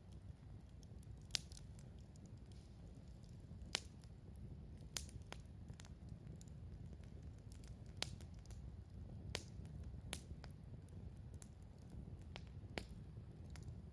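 Wood campfire burning, with a steady low rumble and sharp crackles and pops of the burning wood every second or two at irregular intervals.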